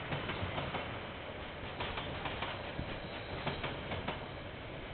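KiwiRail train on the line, heard through a security camera's microphone: a steady low hum and rumble under a noisy hiss, with irregular clicks.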